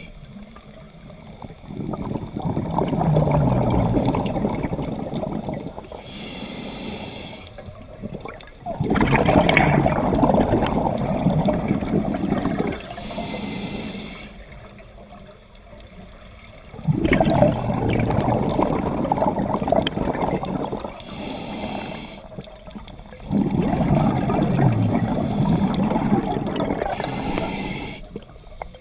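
Scuba diver breathing through a regulator underwater: four long rushes of exhaled bubbles about every seven seconds, each followed by a short hissing inhale from the regulator.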